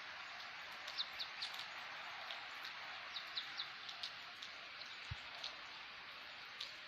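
Steady light rain hissing, with scattered sharp drip ticks of drops landing nearby.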